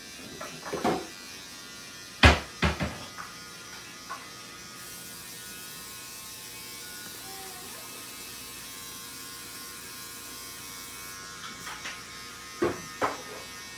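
Electric hair clippers buzzing steadily while shaving a head. A few sharp knocks cut in, the loudest about two seconds in and another pair near the end.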